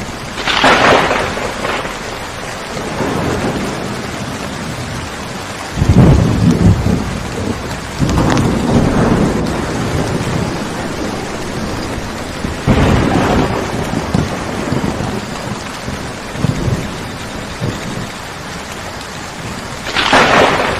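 Steady heavy rain with several rolls of thunder over it, the deepest rumble about six seconds in and another near the end.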